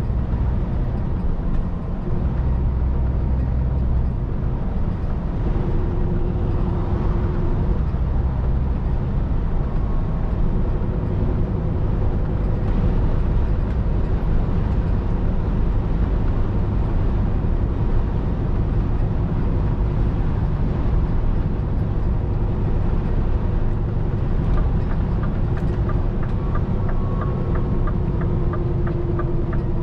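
Scania R500 truck's diesel engine and road noise heard from inside the cab while driving, a steady drone. A fast, regular ticking joins in near the end.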